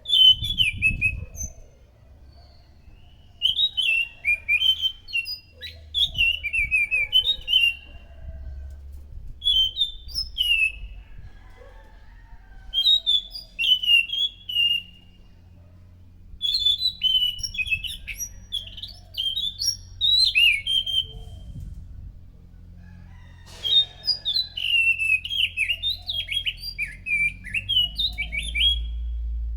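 Anis macan thrush singing: bursts of quick, mostly falling whistled notes, one phrase every few seconds with short pauses between, over a low background rumble.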